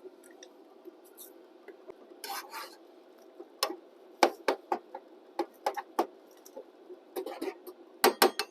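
A cooking utensil scraping and knocking against a pan, in short irregular strokes, while ground goat meat is broken up and stirred as it browns.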